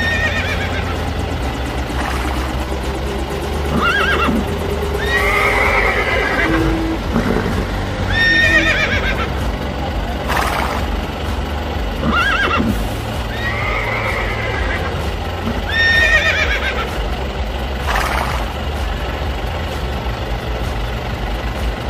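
Horse whinnies, a recorded sound effect repeated about every two seconds, over background music.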